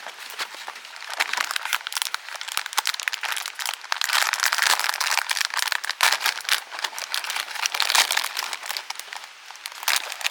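Wood campfire crackling close by: a dense run of small pops and snaps, busiest in the middle and easing off near the end.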